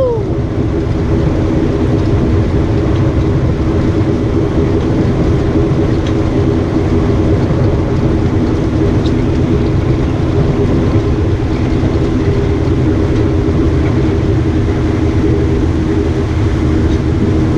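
Boat motor running steadily under way, a constant hum with wind and water rushing past the hull.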